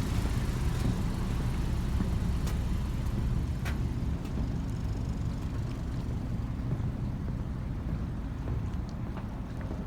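Ferry boat's engine running with a steady low rumble, easing off slightly toward the end, with a few faint clicks.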